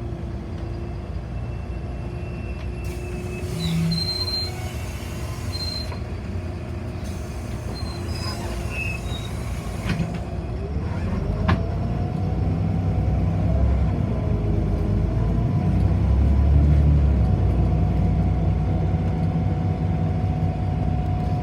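Inside a city bus while it drives: a steady low rumble with a whine that rises in pitch about halfway through as the bus speeds up, then holds steady, the overall sound growing louder.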